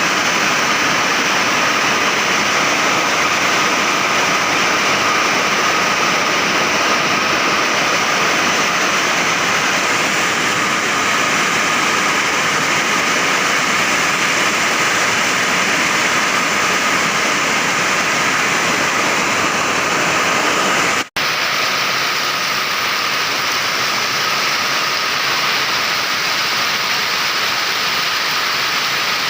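Heavy tropical downpour in strong wind, a loud steady rush of rain. About twenty seconds in it drops out for a split second.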